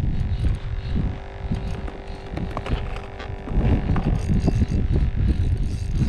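Low, uneven rumbling of wind buffeting the microphone, with a faint steady hum over the first half and scattered faint ticks.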